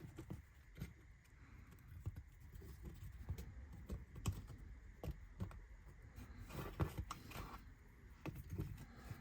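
Light, irregular clicks and taps of small laser-cut kit parts being handled and set down on a work surface during assembly.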